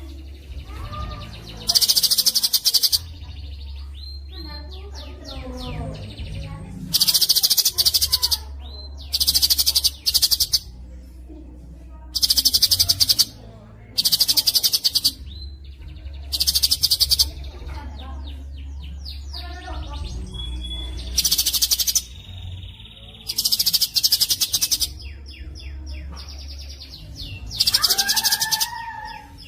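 Songbird training recording of rapid, dense, high-pitched trilling song, delivered in about nine loud bursts of roughly a second each. Softer chirps and short whistles fill the gaps, over a steady low hum.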